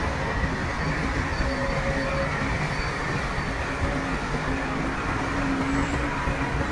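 Heavy earthmoving machinery running steadily: a continuous diesel rumble with faint whining tones over it.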